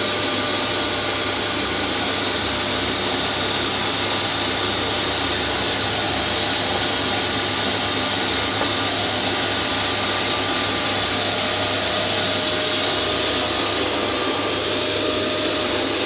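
Vacuum cleaner running steadily, its motor giving a loud, even rushing noise with a constant whine, as it is passed over a cat's fur.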